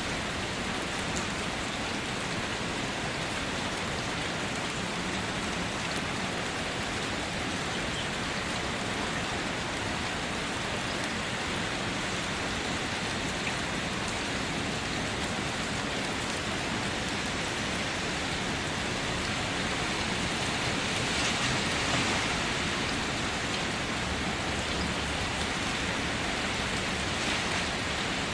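Steady rain falling, an even hiss of drops on surfaces that swells briefly about three-quarters of the way through.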